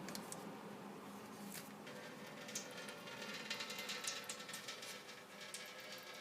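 Faint, irregular clicks and light taps of hand work on the car's radiator and drain fitting.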